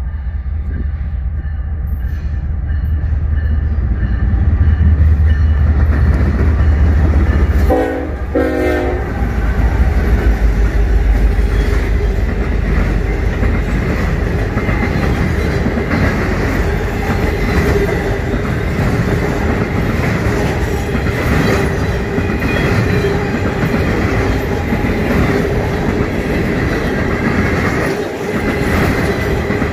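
Norfolk Southern freight train passing close by. The locomotives' diesel engines rumble heavily as they approach and go by, with a short horn blast about eight seconds in. Then the intermodal trailer flatcars roll past with steady wheel clatter over the rail and a thin wheel squeal.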